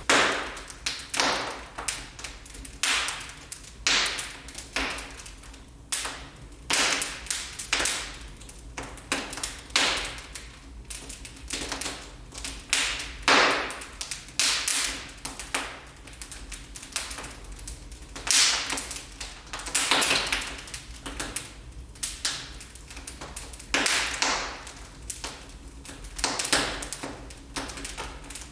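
Wood fire burning in a fireplace, crackling with sharp, irregular pops about once a second.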